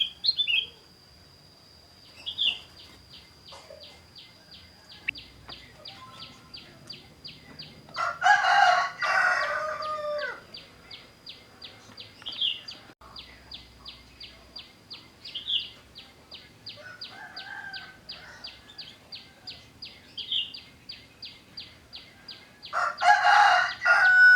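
A rooster crowing twice, each crow about two seconds long, with a fainter crow in between. A steady high ticking, about four a second, and a few short bird chirps go on underneath.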